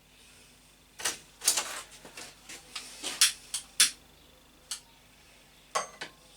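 Sharp knocks and clatters as objects are handled and set down. There is a quick run of them in the first half, then a few single knocks near the end.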